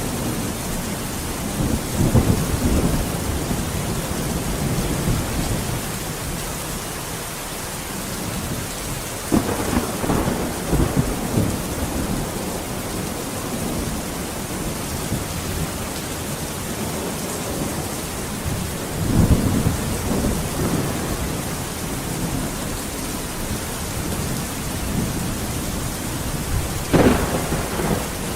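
Steady rain with thunder: an even hiss of rain throughout, broken by four low rumbles of thunder, the last, near the end, a sharper crack.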